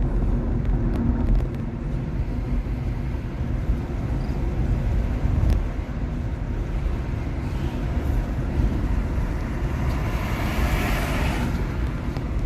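Steady road and tyre noise from a 2021 Nissan Leaf electric car driving, with a low rumble and no engine note. About ten seconds in, a hiss swells and then fades.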